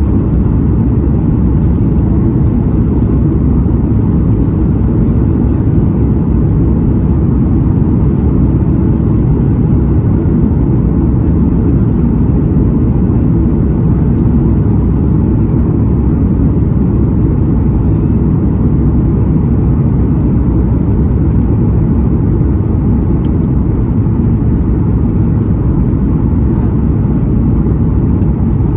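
Steady low rumble of Boeing 737 MAX 9 cabin noise, engines and airflow, with no change in pitch or level.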